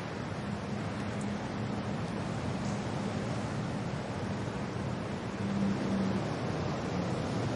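Steady wind and rain noise, an even rushing hiss, with a faint low hum that comes and goes.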